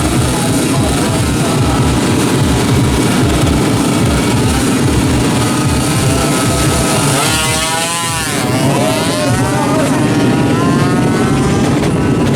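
Two-stroke Yamaha F1ZR underbone drag-bike engine running hard, its pitch dipping and climbing again about seven to eight seconds in.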